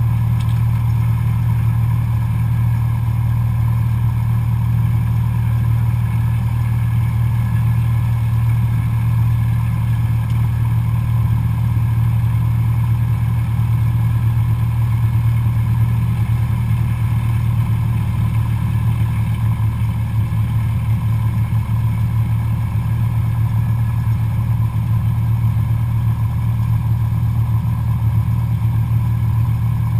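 Cessna 172SP's four-cylinder Lycoming piston engine and propeller running at a steady, unchanging power with a low, even drone.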